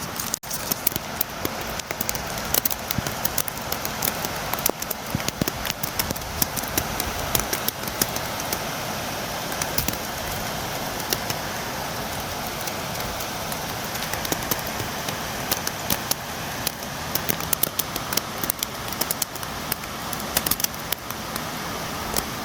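Steady rain beating against a window: a constant hiss with many sharp, irregular drop taps.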